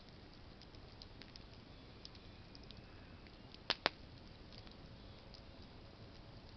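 Campfire of burning branches crackling softly with scattered small ticks, and two sharp pops in quick succession just past the middle.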